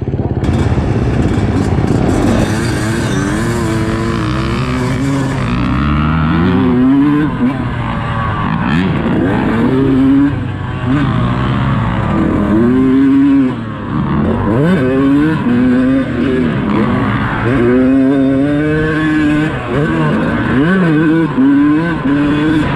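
Dirt bike engine revving hard and easing off again and again, its pitch climbing and dropping repeatedly as it is ridden through the gears.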